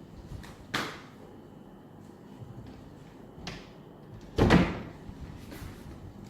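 A few short knocks and thumps: a sharp knock about three-quarters of a second in, a lighter one a little after three seconds, and a louder, heavier thump about four and a half seconds in.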